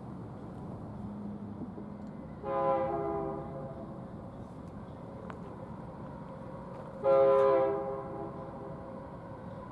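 BNSF freight locomotive's multi-chime air horn sounding two blasts of about a second each, the second louder, over the low rumble of the approaching train.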